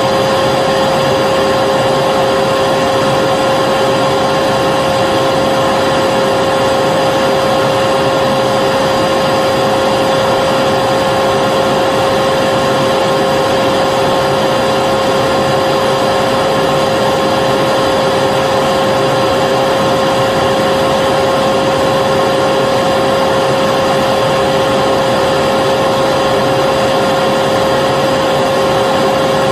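Vacuum cleaner running steadily: an even rush of air with a constant mid-pitched motor whine that holds one pitch without changing.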